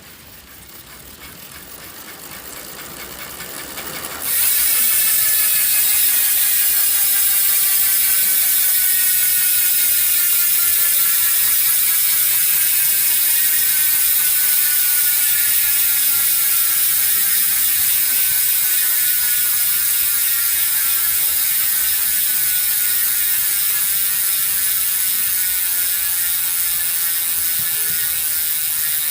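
Six-pawl SYTE bicycle freehub buzzing as the wheel freewheels: a dense, rapid ratchet clicking, close-spaced like a cricket or wasp. It builds quietly for the first few seconds, jumps suddenly to full loudness about four seconds in, then very slowly winds down as the wheel coasts.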